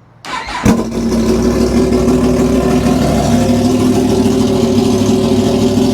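Yamaha MT-10 SP's crossplane inline-four engine started with its exhaust end can removed: a brief crank, a sharp loud burst as it catches just under a second in, then a steady idle. With no silencer on the already decatted system it runs quite loud.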